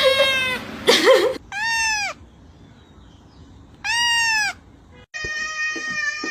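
A cat meowing: two separate meows, each about half a second long, rising then falling in pitch, about two seconds apart, followed about five seconds in by a longer, drawn-out meow.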